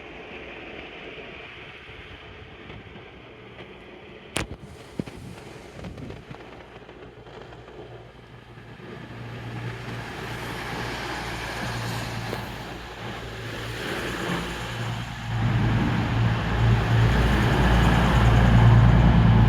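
A vehicle's engine growing steadily louder as it approaches, with a strong low hum, after a single sharp click about four seconds in.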